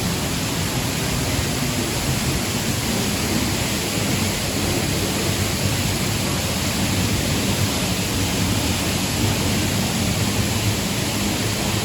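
Steady rushing of a waterfall: an even, unbroken wash of falling water with no rises or breaks.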